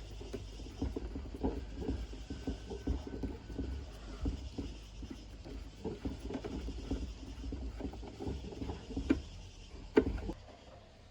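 Many small clicks, knocks and scrapes of hands working on parts, over a low rumble, with one sharper knock about ten seconds in.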